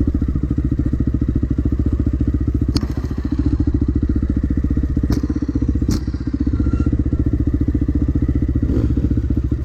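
Dirt bike engine running steadily under way, its fast, even firing pulses strongest in the low range. Three sharp knocks cut across it, the first about three seconds in and two more about a second apart past the middle.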